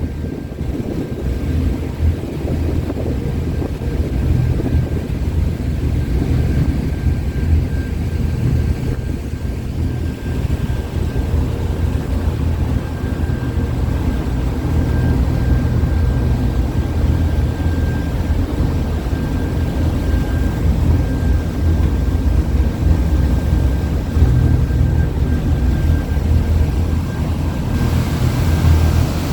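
Passenger boat's engine running steadily under way, a loud low hum with a faint high whine over it, heard on board.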